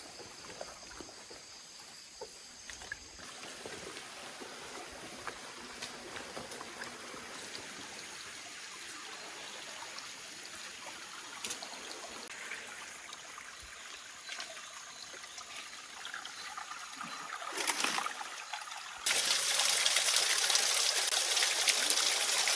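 Shallow stream water trickling faintly and steadily, with small ticks and clicks. About three-quarters of the way through, a much louder, steady rushing hiss starts suddenly.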